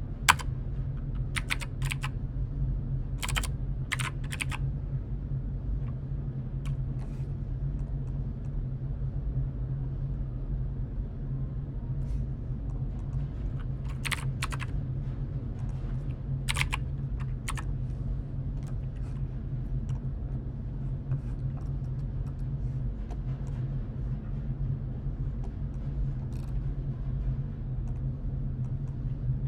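Computer keyboard keys clicking in short, scattered runs of typing with long pauses between, over a steady low hum.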